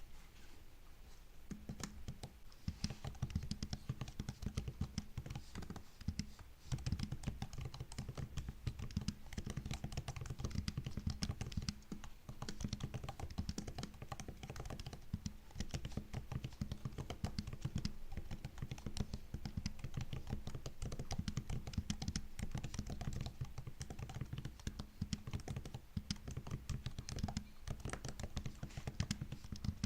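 Continuous fast typing on a MacBook's built-in keyboard: a dense run of key clicks and taps, sparser for the first second or so, with brief pauses about six and twelve seconds in.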